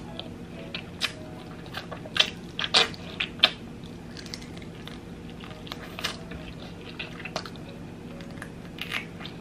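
Close-miked biting and chewing of crispy breaded fried chicken: a cluster of sharp crunches and smacks about two to three and a half seconds in, then softer, scattered chewing sounds.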